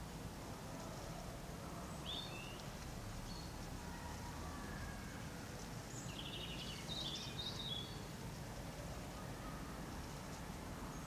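Outdoor ambience: a steady low background rumble with a few short bird chirps, one about two seconds in and a small cluster about six to eight seconds in.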